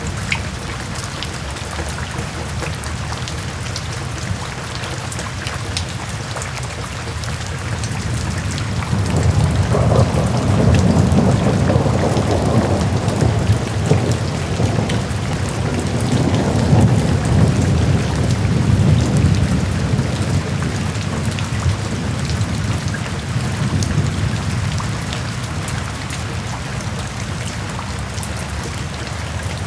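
Steady rain falling, with a long low rumble of thunder that swells about a third of the way in and fades out over roughly ten seconds.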